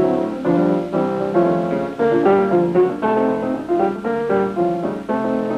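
Piano music playing a brisk tune, the notes changing quickly over a regular beat.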